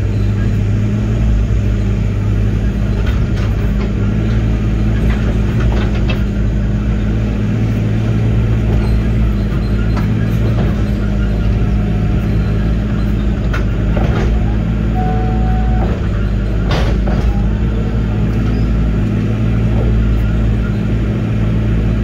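Diesel engine of a Link-Belt 145 excavator running steadily under work, with a few sharp knocks, the loudest about three quarters of the way through.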